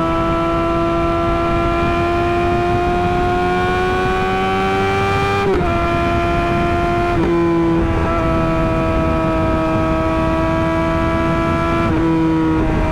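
Suzuki GSX-R600's inline-four engine running at high revs through an M4 GP slip-on exhaust, its pitch climbing slowly for about five seconds. The pitch dips sharply about five and a half seconds in, again at about seven seconds, and once more near the end, holding steady in between.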